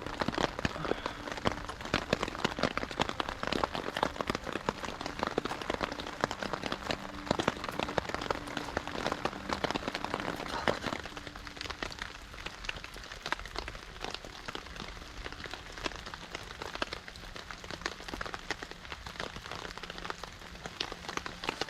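Steady rain pattering on a tarp shelter overhead, a dense spatter of drops, easing slightly about halfway through.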